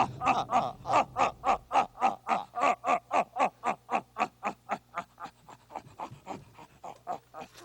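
A puppet character's long, rhythmic laugh, a quick run of repeated "ah-ah-ah" syllables at about four or five a second that gradually fades out.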